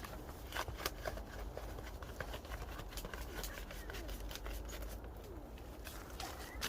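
Faint, scattered clicks and rustling handling noises over a low steady rumble.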